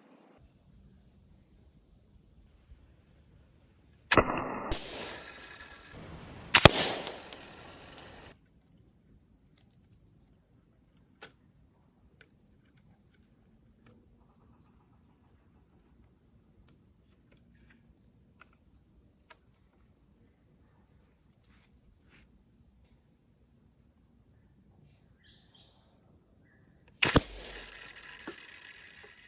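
Homemade slingshot shots: a sharp snap about four seconds in, another shortly before seven seconds and one near the end, each followed by a second or two of rattling noise. A steady high insect trill runs underneath.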